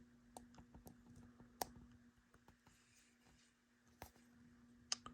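Scattered faint clicks of a small tool and the model railcar's parts being handled during disassembly, the sharpest about a second and a half in and two more near the end, over a faint steady hum.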